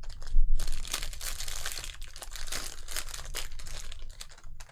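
Plastic trading-card pack wrapper crinkling and tearing as it is ripped open, a dense run of sharp crackles starting abruptly just after the start.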